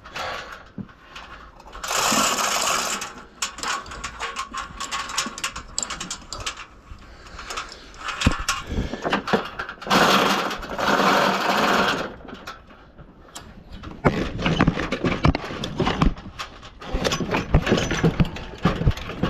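Work on a car engine: a small power tool's motor buzzing in two bursts of about a second each, between scattered metal clanks and knocks.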